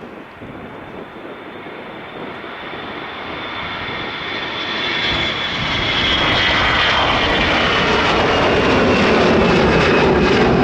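Jet airliner's engines growing steadily louder as it nears, then holding loud, with a high whine that slides gradually lower as it passes close by.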